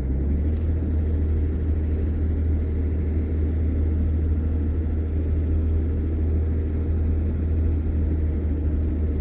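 Steady low engine drone and road noise heard inside the cab of a moving vehicle.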